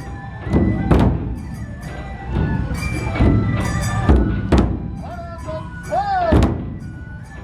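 Matsue dō procession music: large dō drums struck in heavy, uneven beats about a second apart, over steady held notes from a higher melodic instrument.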